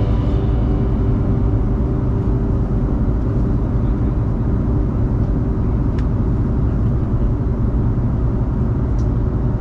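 Steady airliner cabin noise in flight: the even rumble of engines and airflow, with two faint clicks a few seconds apart.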